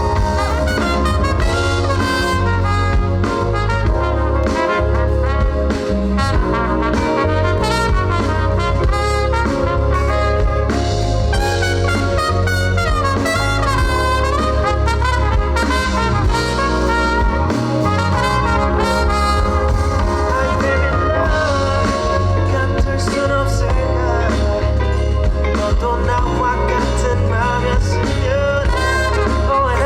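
Live pop-rock band playing an instrumental break with no singing: a steady bass and drum groove under a lead melody line that bends and glides in pitch.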